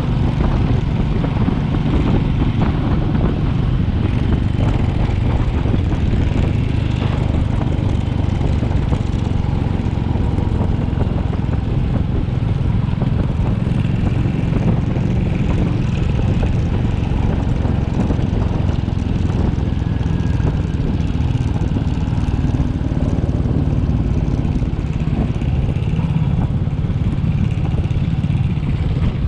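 Royal Enfield Classic 350's single-cylinder engine running steadily while the motorcycle is ridden along.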